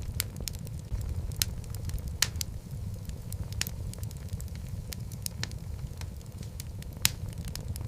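Wood logs burning in a fireplace: a steady low rumble of flame with irregular sharp crackles and pops, a few of them louder.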